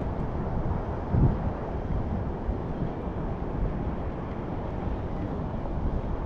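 Wind rushing steadily over the microphone, with one dull thump about a second in.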